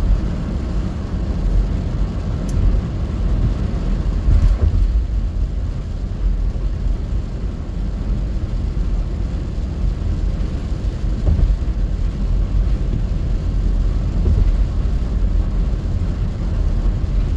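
Steady road and engine rumble heard from inside a moving vehicle's cabin.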